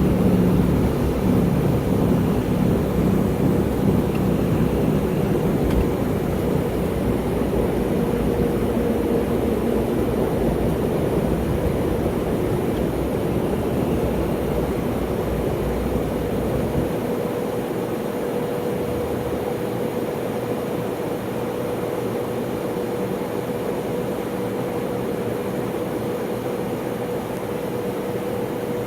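Cabin noise aboard an MD-83 airliner at takeoff power, with its rear-mounted Pratt & Whitney JT8D engines and a steady whine. A heavy low rumble from the runway drops away suddenly about two thirds of the way through as the wheels leave the ground.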